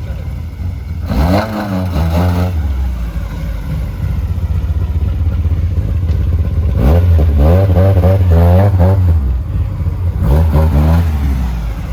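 A car engine idling with a steady low rumble and revved in three spells, about a second in, for a couple of seconds around seven seconds in, and again near ten seconds, its pitch rising and falling with each blip of the throttle.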